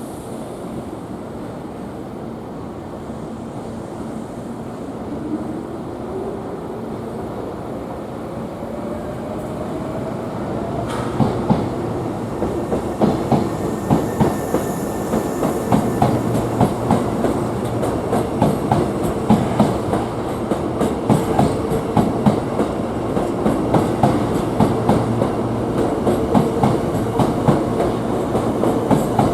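Hankyu electric train pulling away and gathering speed: the traction motor whine rises steadily in pitch over the first several seconds. From about eleven seconds in, the wheels clack over rail joints in a regular rhythm, growing louder as the train runs faster.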